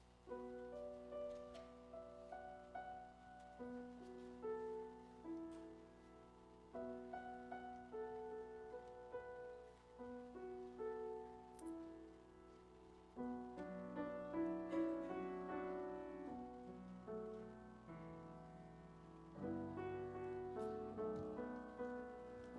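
Piano playing a slow, gentle instrumental introduction of a hymn-like song, sustained chords with a simple melody, growing a little fuller about two-thirds of the way through.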